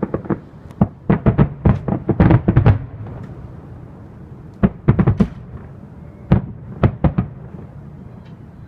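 Consumer fireworks popping and crackling: a dense rapid string of sharp pops about a second in, then scattered bursts of pops later on.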